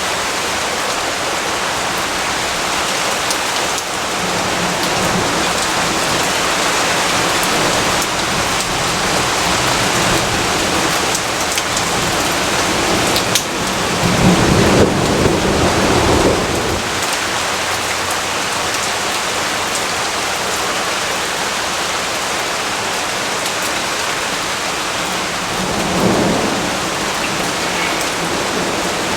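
Steady heavy rainfall with a low roll of thunder swelling about halfway through, the loudest part, and a second, smaller rumble near the end.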